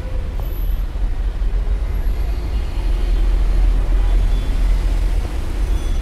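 Toyota Corolla Fielder hybrid's petrol engine running after cutting in from EV mode under the accelerator, a steady low rumble that grows louder over the first few seconds.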